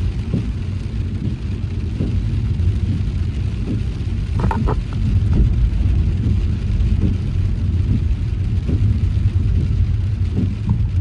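Car driving on a wet road in the rain: a steady low rumble of road and engine noise with a faint hiss of rain. A brief higher-pitched sound comes about four and a half seconds in.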